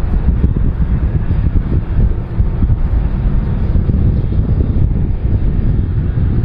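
Loud, steady low rumble of aircraft engines, with wind buffeting the microphone.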